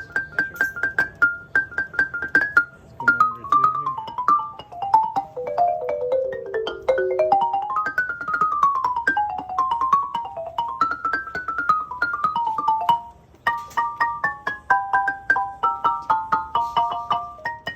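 Marimba played solo with mallets in fast runs: quick repeated high notes, then scales sweeping down and back up. After a brief pause about two-thirds through, the notes come in two-note pairs.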